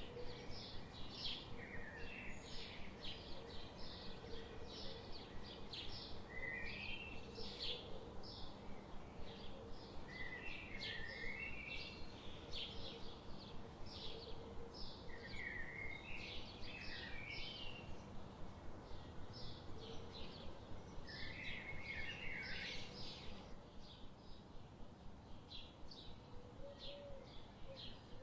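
Canada goose goslings peeping continuously, a rapid stream of short high chirps with some lower wavering bird notes mixed in, thinning out somewhat near the end.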